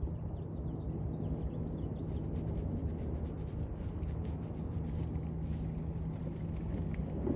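Beach ambience: a steady low rumble of wind and surf, with a low steady hum and scattered faint high chirps and ticks.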